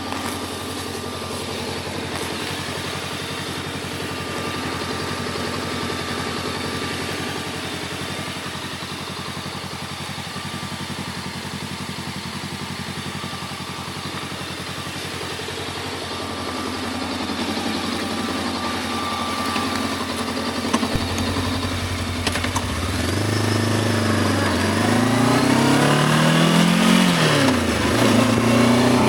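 Voge 525 DSX's parallel-twin engine idling steadily, then, after a couple of sharp clicks about two-thirds of the way in, pulling away: the revs rise and drop repeatedly as it accelerates through the gears, getting louder.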